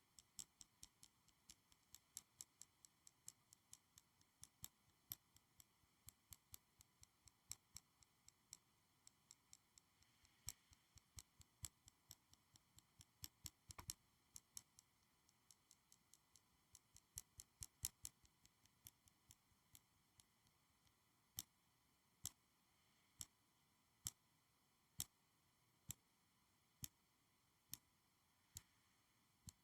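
Crisp clicks and taps on school supplies, quick and irregular at first, then slowing to even single clicks about once a second for the last third.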